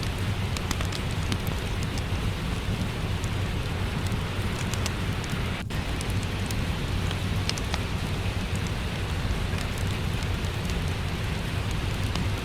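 Steady rain falling, with a low rumble beneath it, mixed with the scattered crackles and pops of a wood fire in a fireplace.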